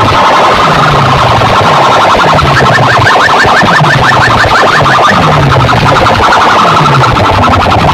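Very loud DJ sound-system music of the sound-box competition kind, distorted at full volume: fast, repeated rising siren-like electronic chirps over a looping bass figure that repeats about once a second.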